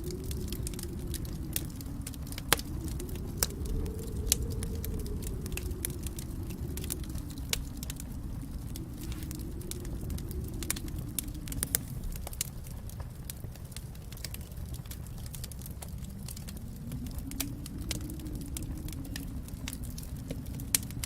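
Fire crackling in a fireplace: a steady low rumble of flame that slowly swells and fades, under a constant scatter of sharp pops and snaps, a few of them louder than the rest.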